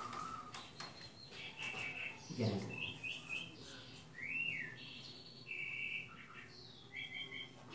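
Birds chirping: a string of short, high calls.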